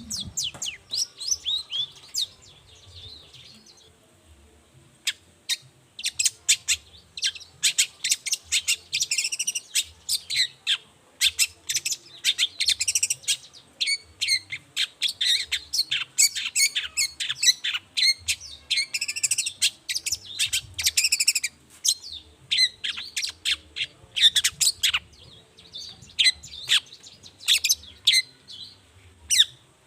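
Long-tailed shrike (cendet) singing vigorously: a fast, unbroken run of short, high chattering notes. It is sparse for the first few seconds, then continuous from about six seconds in.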